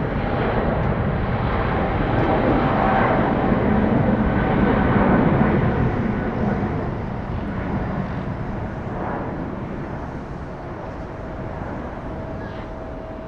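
Jet engines of a Boeing freighter passing close by. The roar swells to its loudest about five seconds in, then slowly fades.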